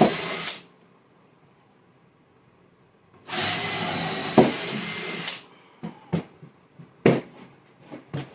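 Power drill driving wood screws up through a board: a run that stops about half a second in, then a second run of about two seconds with a steady high whine, followed by several sharp knocks and clicks.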